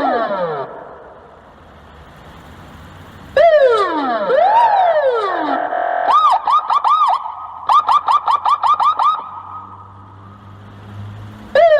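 Police car electronic siren signals in short bursts. A falling wail sounds about three seconds in, followed by a rapid warble of quick rising-and-falling chirps, about five a second, from about six to nine seconds in. Another falling wail starts near the end.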